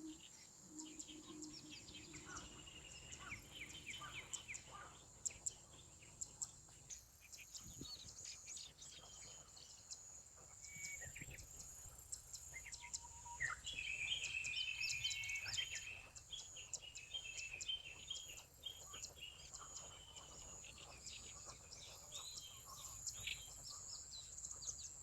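Outdoor ambience: small birds chirping on and off, busiest in the middle, over a steady high-pitched insect hum.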